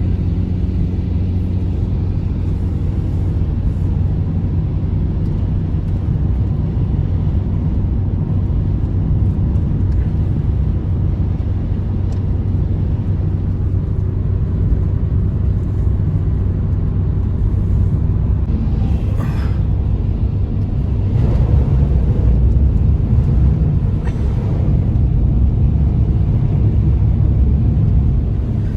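Loud, steady low rumble, strongest in the bass, growing a little louder about two-thirds of the way through, with a couple of brief faint hisses over it.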